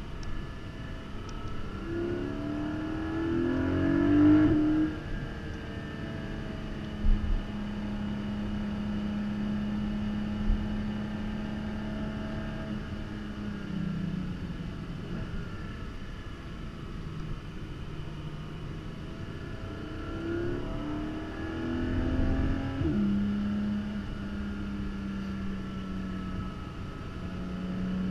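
Porsche Cayman GT4's 4.0-litre naturally aspirated flat-six heard from inside the cabin on track, rising in pitch under acceleration twice and holding steady revs in between. There are a couple of short, sharp knocks about seven and ten seconds in.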